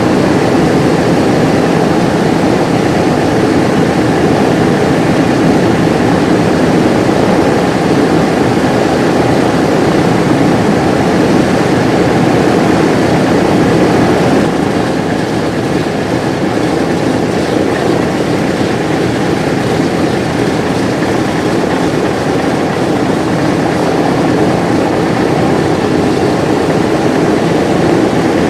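Simulated twin piston-engine run-up of a Vickers Wellington bomber, played by a scale model's sound system: a loud, steady engine drone that eases slightly about halfway through.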